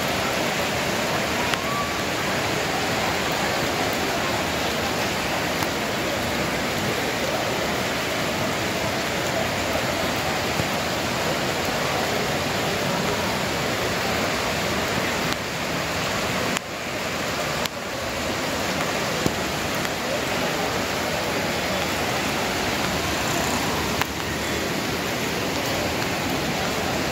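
Heavy rain pouring down, a steady even hiss, with a few brief breaks a little past the middle.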